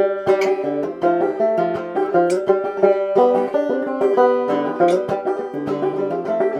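Five-string banjo played clawhammer style, a steady run of plucked melody notes in an old-time rhythm.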